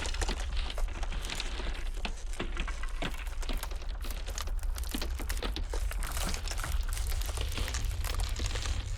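Glacial ice cracking in a dense, irregular crackle of small snaps and clicks, over a steady deep rumble of blizzard wind.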